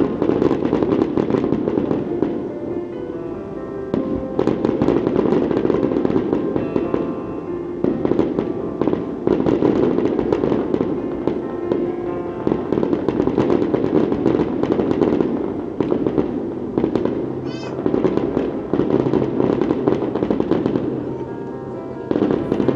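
Aerial fireworks display: shells bursting and crackling in rapid succession, with music playing underneath.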